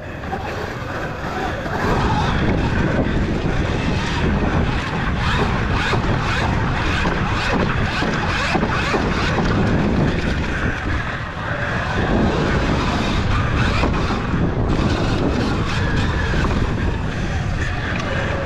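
Wind buffeting an action camera on an electric Sur-Ron dirt bike ridden hard on a dirt track, with frequent knocks and rattles from the bike over the bumps.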